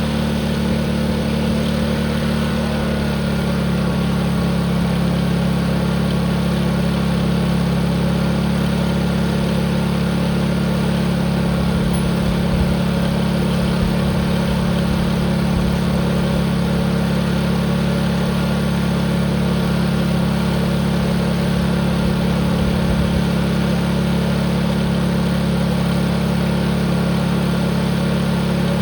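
Tractor engine running steadily at full throttle, held wide open.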